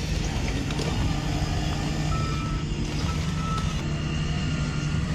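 RC construction vehicle running with a steady low drone, with a few short high beeps.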